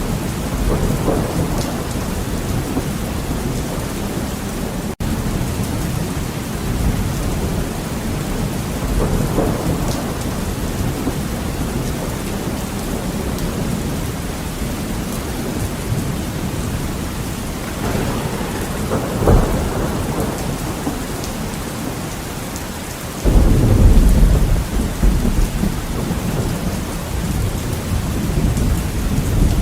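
Heavy rain falling steadily on a window, with thunder rolling through it: several softer rumbles swell and fade, then comes a sharp crack about two-thirds of the way through. A loud, deep rumble breaks in suddenly a few seconds later and slowly fades.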